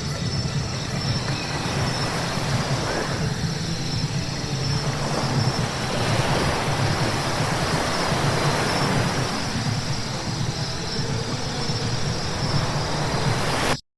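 Car driving on a wet road: a steady low road rumble under tyre hiss, swelling a few times, then cutting off suddenly near the end.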